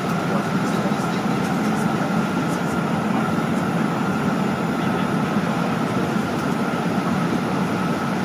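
Steady jet airliner cabin noise: engine and airflow rumble heard from inside the cabin, with a faint steady whine over it.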